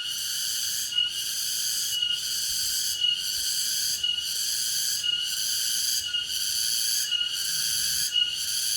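Cicada singing: a loud, steady buzz that breaks and starts again about once a second, each cycle opening with a short high note.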